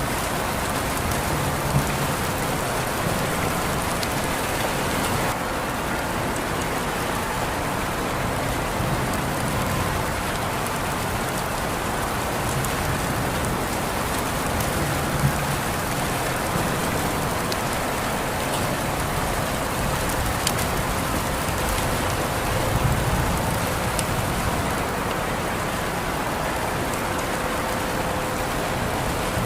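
Steady rain falling and pattering on surfaces in an even, continuous hiss. A few sharper drop ticks stand out now and then, and there is a slight low swell about three-quarters of the way through.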